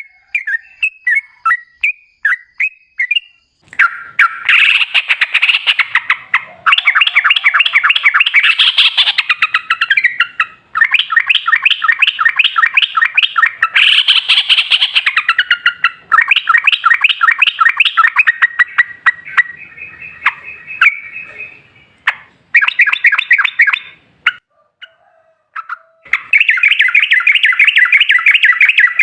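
Yellow-vented bulbul (trucukan) singing: a few separate short chirps, then long runs of fast, rapidly repeated chattering notes (the 'ropel' song), broken by a few short pauses.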